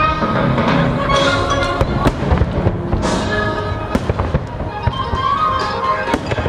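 Fireworks bursting in repeated sharp bangs over a patriotic orchestral show soundtrack that plays on without a break. There is a brief hiss about three seconds in.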